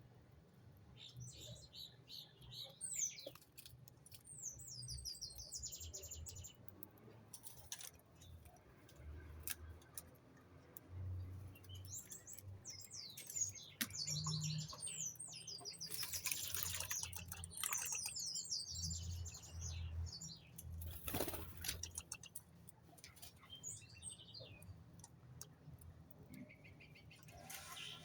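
Small birds chirping in quick, high twitters, on and off throughout, with a few bursts of wing fluttering.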